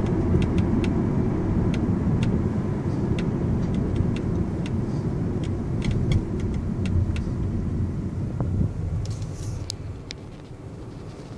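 Mercedes-Benz E350 cabin on the move: a steady road rumble with irregular short, sharp ticks and clicks, the annoying noise from the sunroof. The rumble drops off near the end.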